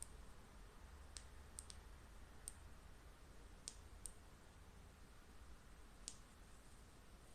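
Faint, sharp clicks of a flashlight's switch being pressed, about eight at uneven intervals.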